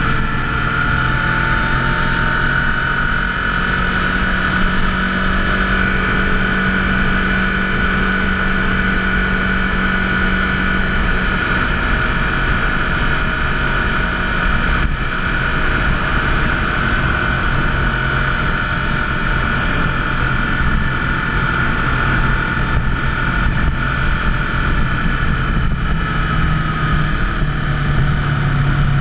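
Motorcycle engine running steadily on the move, with steady road and wind noise. The engine note changes a little about eleven seconds in and rises slightly near the end.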